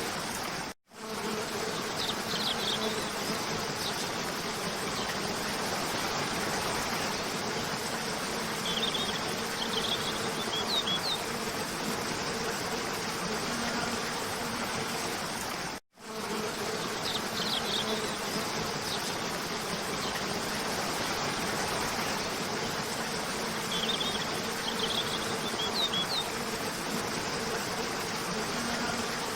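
Steady rush of a cascading waterfall with a steady hum underneath and short clusters of bird chirps. The sound cuts out for an instant about halfway through, and the same passage then repeats as a loop.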